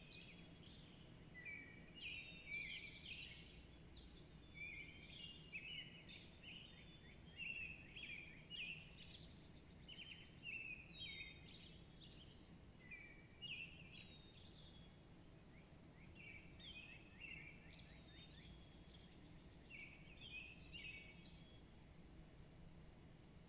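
Several songbirds chirping and twittering faintly, a steady stream of short, high chirps and quick rising and falling notes from more than one bird, over a low steady background hum.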